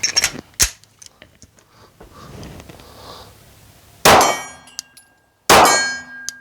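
A few light clicks of pistol handling, then two shots from a 9mm Glock 17 Gen 3 about a second and a half apart, each followed by the ring of a struck steel target.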